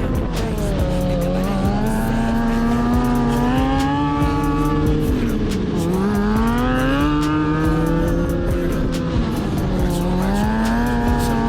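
Sportbike engine revving, its pitch climbing steadily and then dropping sharply three times: about a second in, near six seconds and near ten seconds.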